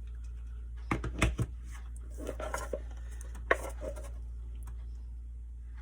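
Handling sounds of small wooden craft blocks being glued and pressed together on a work surface: a few light knocks and clicks about a second in and again later, with brief rustling between.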